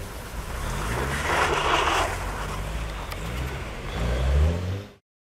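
Mazda MX-5's four-cylinder engine revving up and down as the car slides on snow, with a burst of hiss from the tyres churning snow about a second in. The engine rises again near the end, and then the sound cuts off suddenly.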